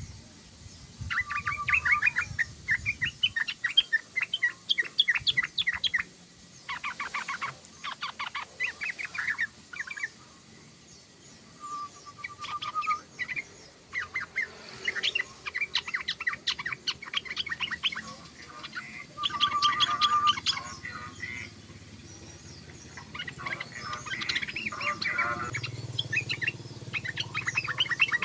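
Yellow-vented bulbul (trucukan) chattering song: bouts of rapid, clicky notes with short trills, broken by brief pauses.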